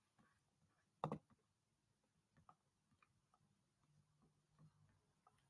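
Near silence: room tone, with one faint click about a second in and a few fainter ticks scattered after it.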